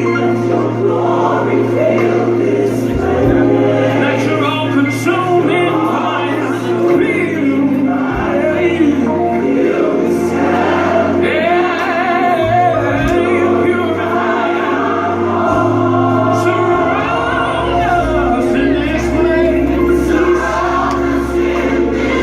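Gospel music: a choir singing over long, held bass notes that change every few seconds.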